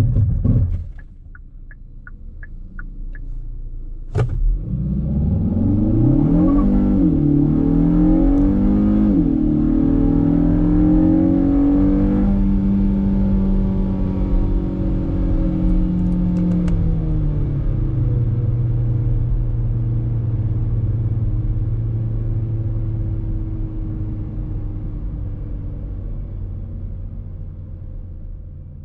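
Kia Cerato GT's 1.6-litre turbo four-cylinder engine with its sports exhaust. About four seconds in there is a sharp click. The engine is then revved up and down several times, held high for a couple of seconds, and drops back to a steady idle that fades near the end.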